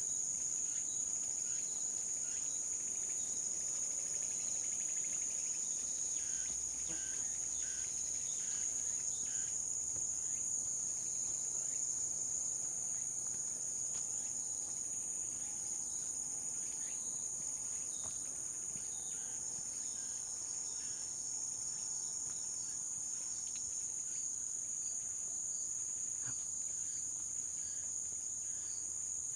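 Steady, high-pitched chorus of trilling insects, unbroken throughout, with faint footsteps on a forest path underneath.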